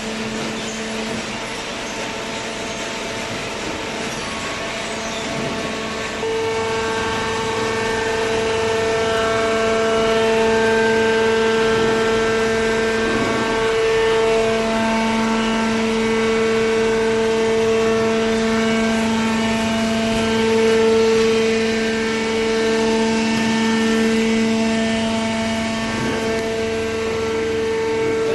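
Commercial cardboard baler running, a steady machine hum and whine made of several held tones that grows louder about six seconds in.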